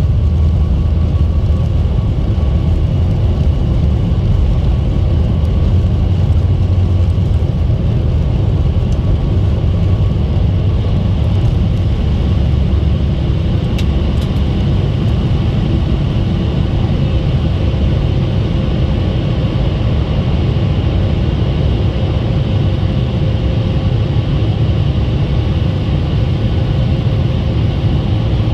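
Steady roar of a Boeing 737 MAX 8's CFM LEAP-1B engines and rushing air heard inside the cabin during takeoff, a low rumble loudest, with faint steady whines above it; one whine grows a little stronger about halfway through.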